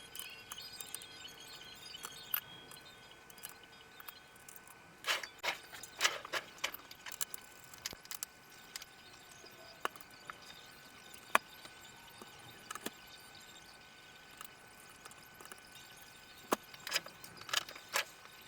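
Short clicks and taps of hands handling the plastic housing, parts and screws of an all-in-one PC being taken apart, in a cluster about five to seven seconds in and another near the end, over a faint steady high tone.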